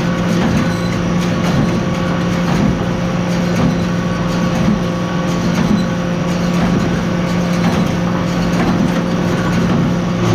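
Tractor engine running steadily under load while powering a small square hay baler, with a regular pulse about once a second from the baler's working strokes.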